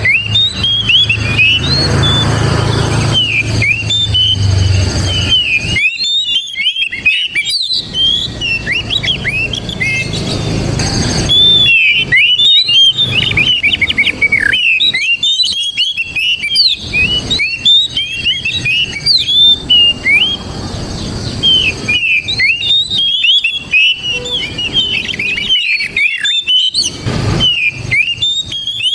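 Oriental magpie-robin singing a continuous, rapid, varied song of short whistled and chattering notes, with brief pauses, over a low background rumble at times.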